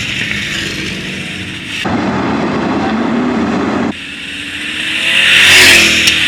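Dirt race trucks' engines running around the track under caution. Near the end one revs up as it comes past and grows loudest.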